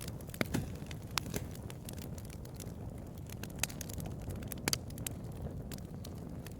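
Wood fire crackling, with irregular sharp pops and snaps over a low steady roar of the burning fire; a few louder pops stand out, two close together near the middle.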